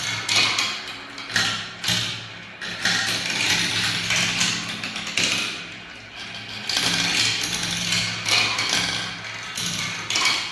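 Balls rolling down a spiral marble-run track: a rattling roll that swells and fades every second or two, with sharp clicks and knocks as balls drop and hit the track.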